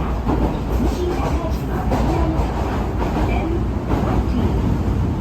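Osaka Metro Midosuji Line subway train running, heard from inside the car: a steady low rumble of wheels on rail and traction motors.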